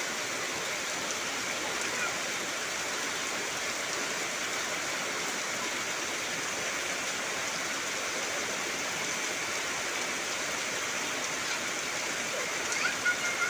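Heavy rain falling steadily, an even hiss of rain on foliage, with a few short chirps near the end.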